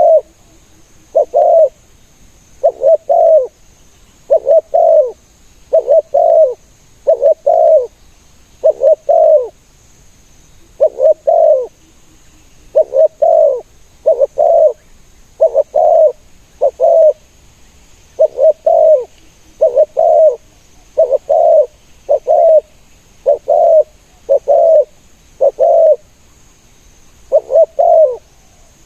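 Spotted doves cooing: short, low coos in pairs and threes, repeated over and over at a steady pace, with brief pauses twice.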